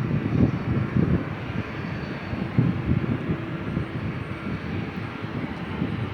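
Jet aircraft engine noise, slowly fading over the few seconds, with gusty wind buffeting the microphone.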